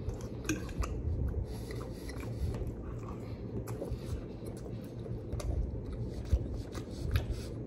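A man chewing a mouthful of soft, sauce-coated breaded orange chicken with his mouth closed, with scattered light clicks. A steady low hum runs underneath.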